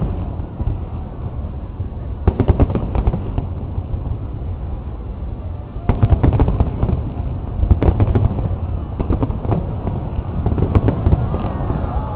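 A large aerial fireworks display going off in salvos of bangs over a low rumble: a cluster about two seconds in, then a denser, louder run of bangs from about six seconds on.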